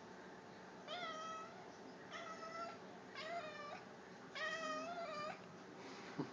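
Domestic cat meowing four times, about a second apart, the last call the longest. A few soft knocks near the end.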